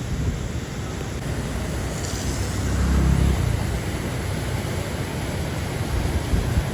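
Road traffic noise: a steady low rumble, with a motor vehicle passing that swells to its loudest about three seconds in.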